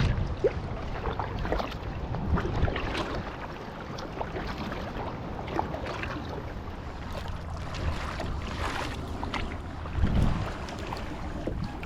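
Kayak paddle strokes dipping and splashing in the water, with scattered drips and wind on the microphone; a louder rumble of wind about ten seconds in.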